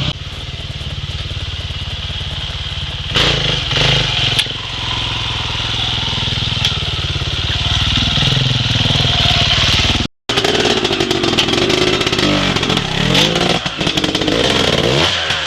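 Dirt bike engine running steadily, its pitch wavering with the throttle, with a few sharp clicks about three and four seconds in. The sound cuts out for a moment about ten seconds in.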